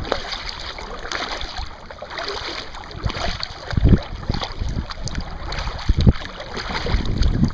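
Water sloshing and splashing around a kayak's bow, with wind buffeting the microphone and a couple of louder low thumps about two seconds apart.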